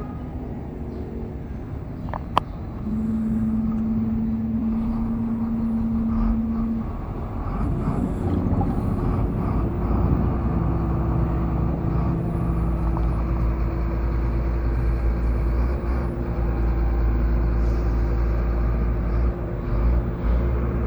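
An engine droning steadily over a low rumble, its pitch changing about three seconds in and again about eight seconds in. A single sharp click comes about two and a half seconds in.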